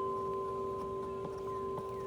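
Large tuned metal wind chimes ringing in strong wind: long, overlapping tones that sustain, with the tubes struck again several times, about every half second.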